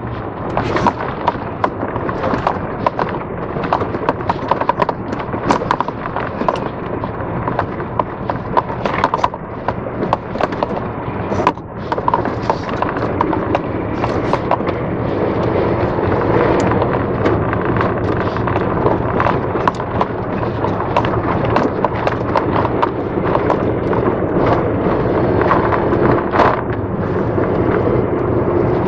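Vehicle driving over a badly broken, potholed road: a steady rumble of engine and tyres with frequent sharp knocks and rattles from the jolts.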